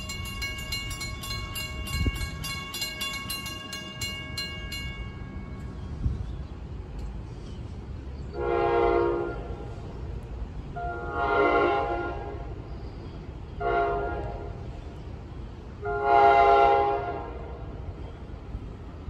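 NJ Transit train horn sounding the grade-crossing signal: two long blasts, one short, then one long. Before the horn, a railroad crossing bell rings steadily and stops about five seconds in.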